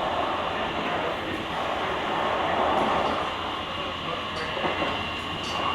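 JR Kyushu 883 series electric limited express running at speed, heard from the vestibule of a motor car: steady wheel-and-rail running noise that swells and eases, with a faint steady whine on top.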